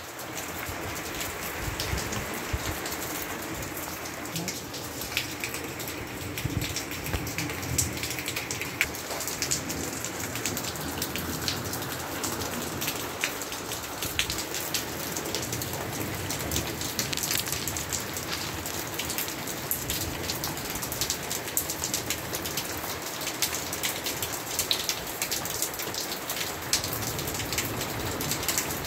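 Steady rain falling, with many separate drops striking hard surfaces close by.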